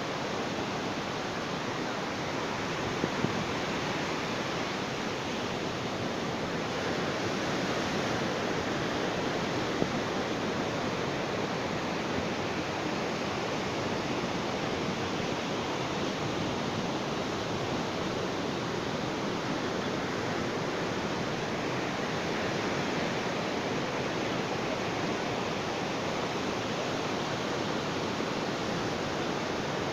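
Ocean surf washing in a steady, even rush, with no separate breaking waves standing out.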